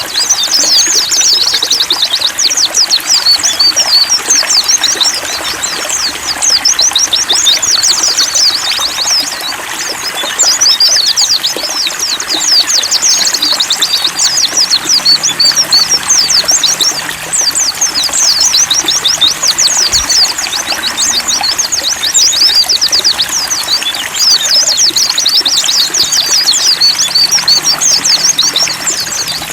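White-eyes (pleci) singing a rapid, high twittering song in bouts of a few seconds with short pauses, over a steady trickle of running water. It is a tutor recording for training caged songbirds.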